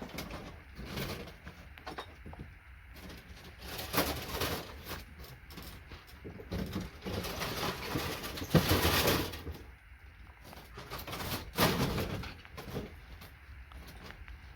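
Clattering and rustling of scrap circuit boards being rummaged through and handled, with several sharp knocks, the loudest about eight and a half seconds in and another near twelve seconds.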